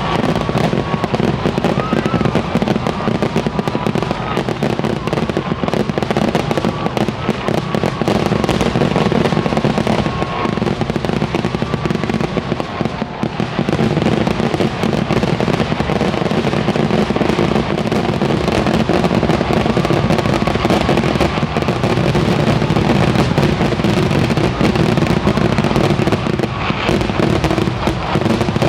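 Kerala temple-festival vedikettu fireworks display in full swing: a dense, unbroken barrage of rapid firework bangs, loud throughout.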